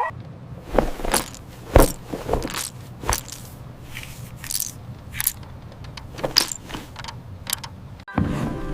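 A series of irregular sharp clicks and light clatters, a dozen or so over several seconds, over a faint low hum.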